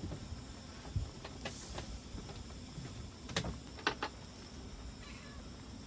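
A handful of short, sharp clicks and taps, the loudest a double click about four seconds in, over a steady low rumble.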